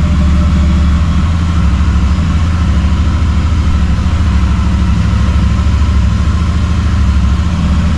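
Royal Enfield motorcycle engine idling steadily with an even, pulsing low rumble.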